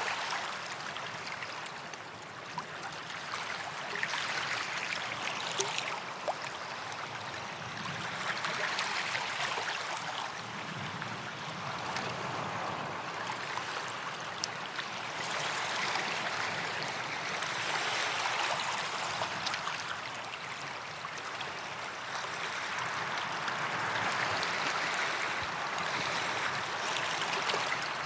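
Small waves washing onto a sandy beach, each swell of surf rising and fading every few seconds, with light crackling of water running back over the sand.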